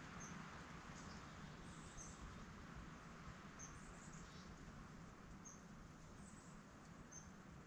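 Quiet, faint woodland background hiss with a small bird giving short high-pitched chirps about every two seconds, and a few softer slurred notes between them.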